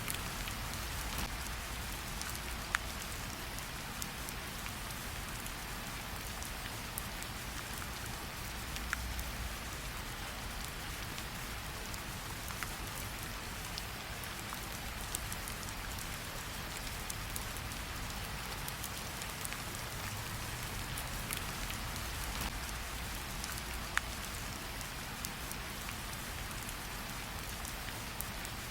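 Steady rain falling, with a campfire crackling underneath and a few sharp pops scattered through.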